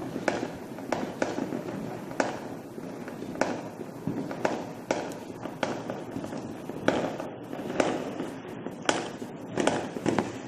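Distant fireworks heard from indoors with the window shut: an irregular run of sharp bangs and cracks, roughly one or two a second and coming thicker near the end, over a continuous background of further bursts.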